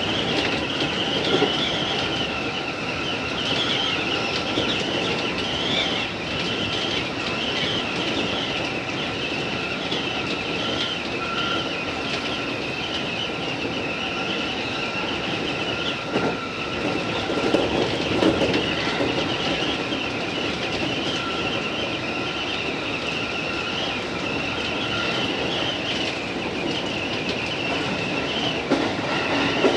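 JR East 205 series electric train running along the line, heard from the front of the train: steady noise of wheels on rails with a thin steady whine and a high, wavering wheel squeal. A few small knocks come about two-thirds of the way through.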